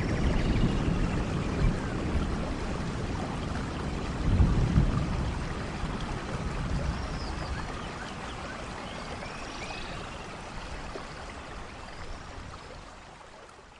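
Steady rain with a low rumble of thunder swelling about four seconds in, the whole fading out gradually toward the end.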